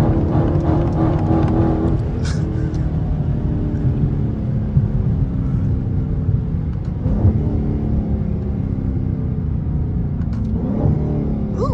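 Dodge Charger 392's 6.4-litre HEMI V8 running while driving, its note climbing with the revs about seven seconds in and again near the end. A short sharp noise cuts through about two seconds in.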